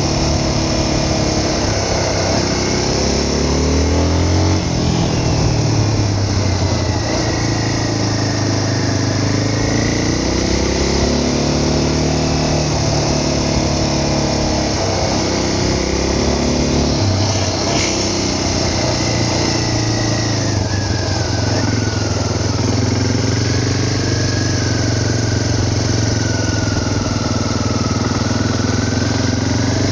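Vehicle engine running under way, its pitch rising and falling again and again as the throttle and speed change. A brief click comes about two-thirds of the way through.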